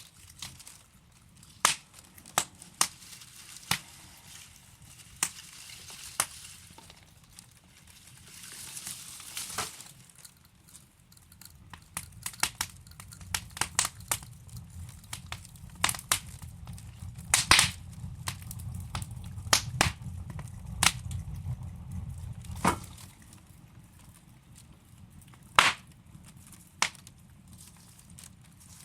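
Burning wood logs in a fireplace crackling, with irregular sharp pops and snaps. A low rumble of the flames comes up for several seconds in the middle and stops suddenly.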